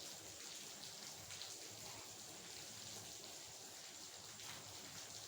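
Steady rain falling, a fine even hiss with scattered individual drops ticking.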